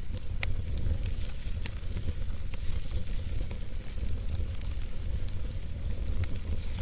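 Fire in a fireplace crackling, with frequent sharp irregular pops over a steady hiss and a low, even rumble of flame.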